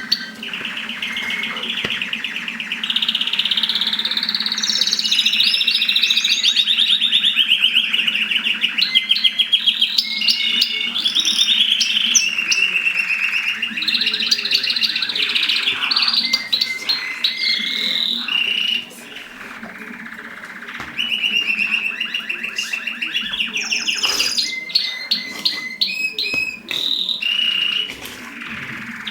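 Mosaic canary singing a long, continuous song of rapid trills and rolling phrases, with a quieter break about two-thirds of the way through.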